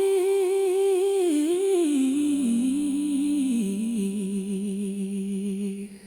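A soul singer's wordless hummed vocal run closing out a song: the melody wavers and steps down to a held low note that fades out near the end.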